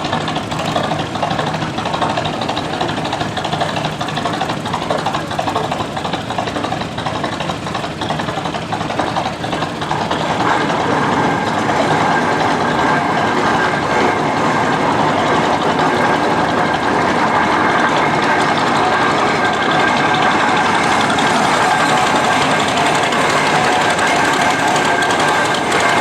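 Garden tractor engine running hard during a pull, getting louder about ten seconds in, with a steady high whine over the engine noise from then on.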